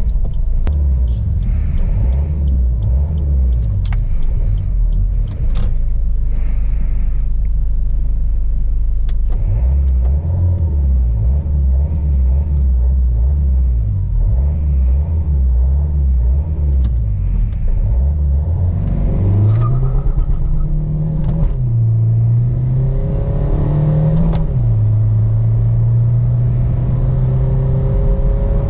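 Maruti Suzuki Baleno's remapped 1.3 DDiS four-cylinder turbodiesel engine running low and steady at first, then from about two-thirds through accelerating with rising pitch, dropping back twice at upshifts, then holding steady near the end.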